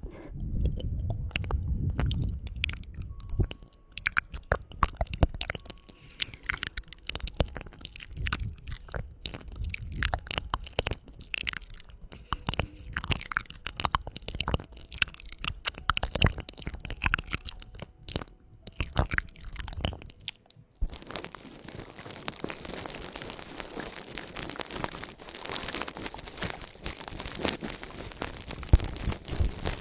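Close-miked ASMR mouth sounds: rapid, irregular wet tongue clicks and crackles. About two-thirds of the way through they give way to a steady, close scratchy rustle on the microphone, as in ASMR ear cleaning.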